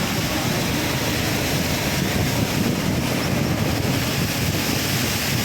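Steady rushing noise with wind buffeting the microphone, a low flutter running under an even hiss.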